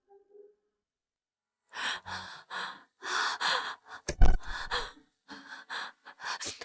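A woman breathing hard in a series of short, shaky gasps and exhales, starting about two seconds in, with a single dull thump about four seconds in.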